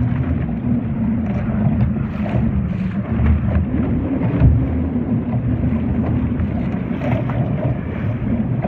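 Wind buffeting the microphone with water washing against a Laser sailing dinghy under way, a steady low rumble with a few light taps and splashes.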